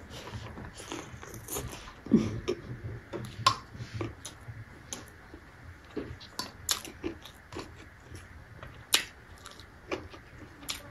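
Close-up chewing of a mouthful of rice and fermented bamboo shoot, with wet mouth sounds and irregular sharp smacks and clicks.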